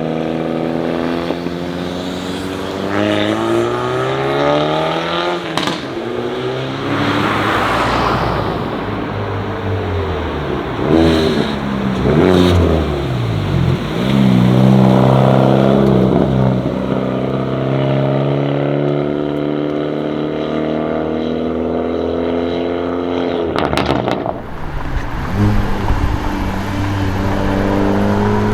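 Hyundai i30 N's turbocharged 2.0-litre four-cylinder engine and exhaust revving and accelerating hard, the pitch climbing and dropping several times, then held high and steady for several seconds. Near the end it drops off with a few sharp exhaust cracks and climbs again.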